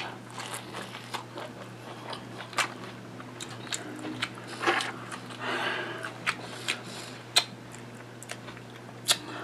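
Close-up mouth sounds of biting kernels off a cob of Mexican street corn and then chewing them: a bite at the start, then scattered small clicks and wet smacks over a steady low hum.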